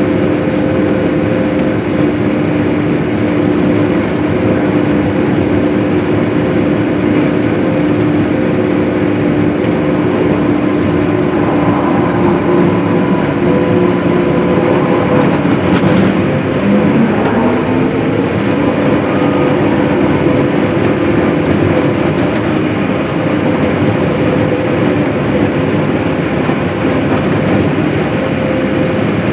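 Case IH self-propelled swather running steadily while cutting hay, its engine and header making a continuous drone. About halfway through, the tone briefly dips and recovers.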